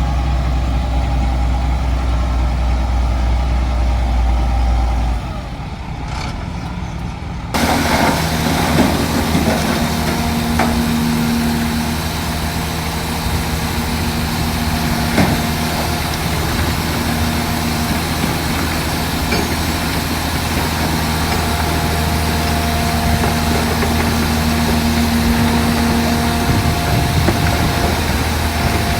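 Heavy diesel machinery engine running steadily. The sound changes abruptly about seven seconds in, from a deep low rumble to a drone with higher held tones.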